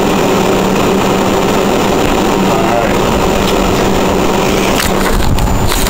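A machine running steadily with a constant low hum, with a few sharp knocks near the end.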